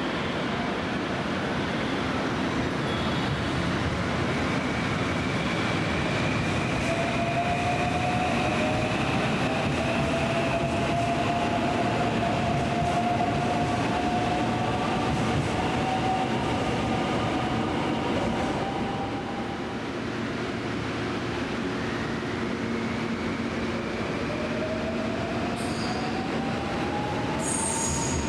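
A train moving through the station: a steady rumble of wheels on rail, with thin whining tones that slowly rise in pitch, once about six seconds in and again later on. There are a few short high clicks near the end.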